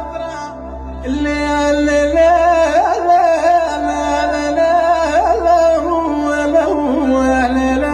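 Tunisian–Algerian folk music in the gasba style: a lead melody of long, held notes with wavy ornaments over a steady low drone. The lead softens just after the start, and a new phrase comes in about a second in.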